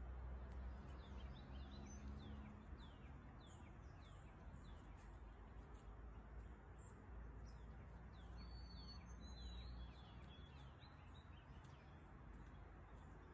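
Faint bird chirping: many quick downward-sliding notes, with a few longer higher notes around two-thirds of the way through, over a steady low background rumble.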